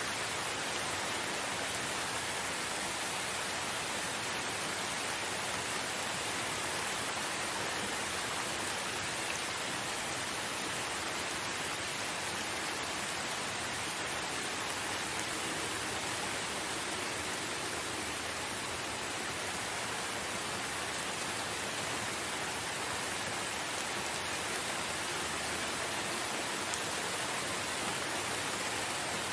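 Steady rain falling in a forest, an even hiss of drops with no distinct events.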